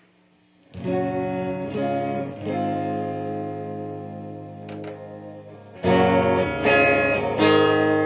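Electric guitar with a 3D-printed PLA Stratocaster-style body and 9-gauge strings tuned down a half step, played through an amplifier. Chords are struck three times starting about a second in and left to ring, then louder chords are struck three times near the end.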